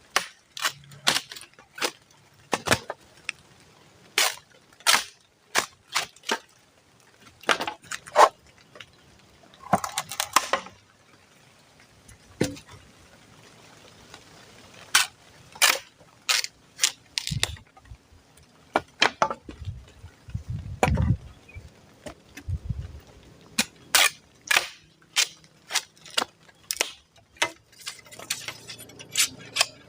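Irregular series of sharp knocks and cracks, dozens of separate strikes with uneven gaps, a quick cluster about ten seconds in, and a few dull low thumps in the middle.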